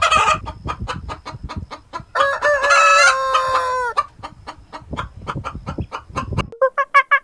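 Chickens clucking in a rapid run of short calls, with a rooster crowing once about two seconds in, the crow held on one pitch and then dropping at its end. Near the end a different bird's quick run of repeated calls begins.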